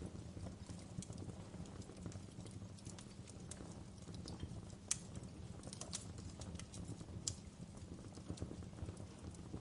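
Wood fire in a fireplace crackling, with irregular sharp pops over a steady low rumble; the loudest pop comes about five seconds in.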